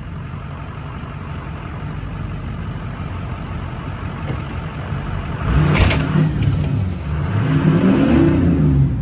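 Ford 6.0 Powerstroke V8 turbodiesel running, then revved twice, a little over halfway through and again near the end, with a high whistle rising and falling along with the revs.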